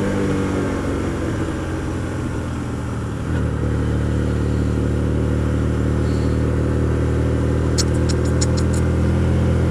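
Hyosung GT125R's 125 cc V-twin engine running steadily under way, with wind and road noise. About three seconds in, the engine note steps up and gets louder. Near the end there is a quick run of about seven light clicks.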